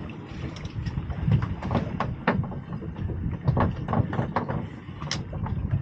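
Scattered sharp clicks and knocks of fishing tackle being handled aboard a small boat, over the low rumble of wind buffeting the microphone.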